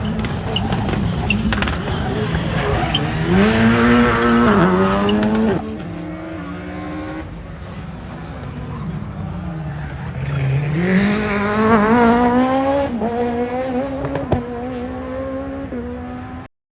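Rally car engine running hard on a circuit, its pitch dipping and then climbing twice as it accelerates. The sound cuts off abruptly near the end.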